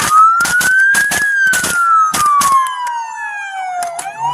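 Police car siren on wail, one slow rise and fall that starts rising again near the end, with a rapid irregular series of sharp cracks over it.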